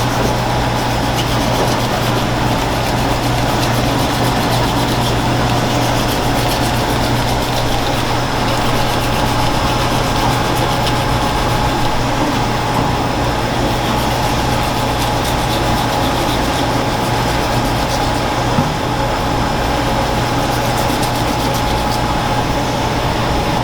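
Steady mechanical hum, a constant low drone with a fainter steady higher tone, unchanging throughout.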